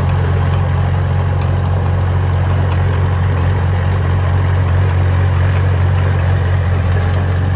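Heavy diesel engine of earth-moving machinery running at a steady, even speed, with a strong low rumble.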